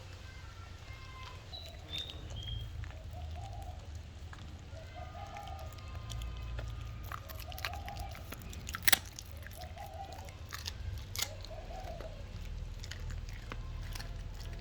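German Shepherd chewing and crunching chicken pieces, with scattered sharp cracks; the loudest crack comes about nine seconds in. A bird calls over and over in the background.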